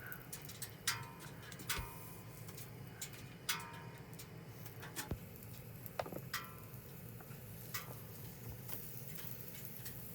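Scattered clinks of a cooking utensil against cookware, about six sharp strikes with a brief ring, over a low steady hum.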